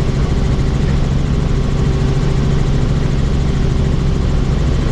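Helicopter in flight with its doors off: a steady, loud drone of rotor and engine over a constant rush of wind.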